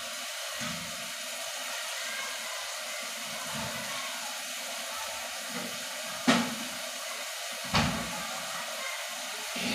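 Diced tomatoes sizzling in a pot on a gas stove, a steady hiss. Two sharp knocks come about a second and a half apart, near the end.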